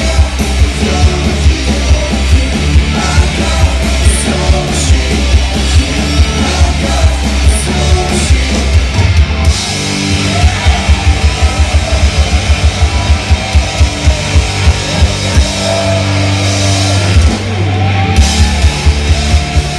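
Loud hard rock music with bass and drums. About halfway through, the drums switch to a fast, even pounding beat, and the music changes again near the end.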